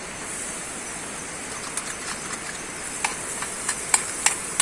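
Chopped onions and green chillies sizzling in hot butter in an aluminium pan on a portable gas stove: a steady hiss, with sharp crackling pops that start about two seconds in and come more often toward the end. This is the tadka (tempering) being started.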